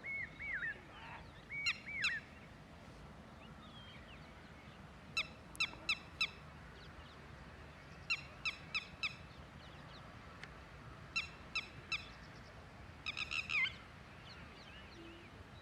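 Wetland birds calling: a few curling whistled notes near the start, then bursts of three to five short, sharp calls repeated every few seconds.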